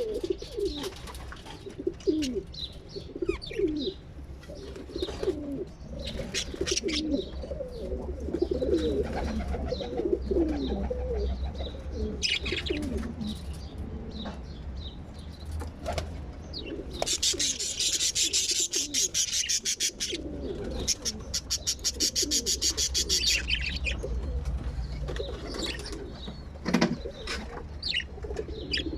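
Birds making low, warbling coos over and over, with a rapid rattling run of quick high pulses for several seconds past the middle and a steady low hum underneath.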